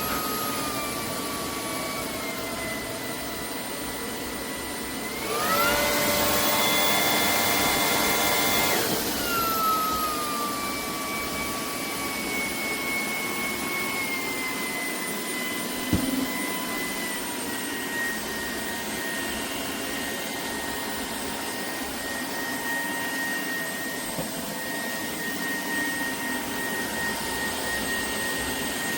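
Shark PowerDetect cordless vacuum motor running with a high whine. About five seconds in it speeds up to a louder, higher pitch for a few seconds, then winds back down and runs steadily. There is a single short knock midway.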